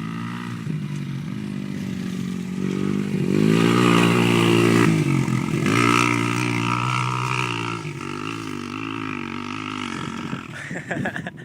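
A dirt bike engine revving hard as the bike accelerates for a jump, rising and falling in pitch several times. It is loudest in the middle, then eases off and fades near the end.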